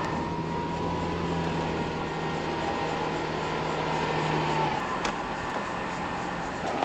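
A car running, with steady engine and road noise; a low hum drops out a little over halfway through.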